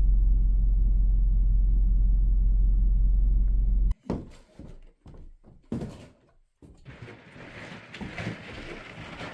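Steady low road rumble inside a moving car, which cuts off suddenly about four seconds in. Then come a few separate knocks and thumps, followed by a faint steady hiss.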